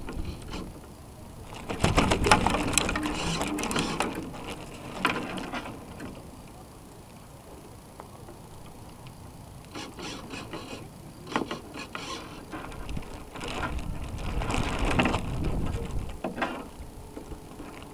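Onboard servos of a North Wind 360 radio-controlled sailboat whirring and rattling in two long bursts, about two seconds in and again about ten seconds in, heard through a camera mounted on the hull.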